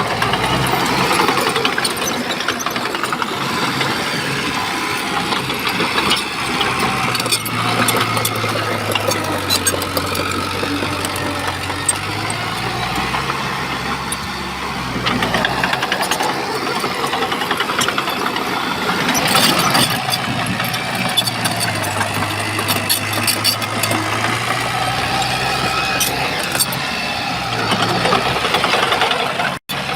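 Diesel engine of a Shantui bulldozer working, its speed rising and falling with the load, with scattered metallic clanks and rattles.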